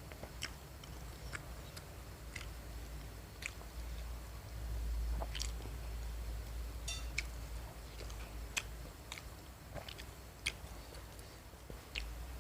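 Close-miked chewing of fried snacks, with sharp wet mouth clicks roughly once a second. A low rumble swells for a second or two a little before the middle.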